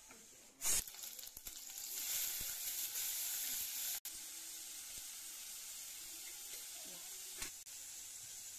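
Chopped onions tipped into hot oil: a sudden loud sizzle about a second in, then the oil keeps frying with a steady hiss.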